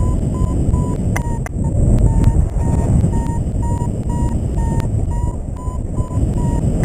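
A paragliding variometer beeping steadily at about two to three beeps a second, its tone stepping slightly up and down; the beeping signals the glider is climbing in lift. Heavy wind noise rushes over the microphone underneath.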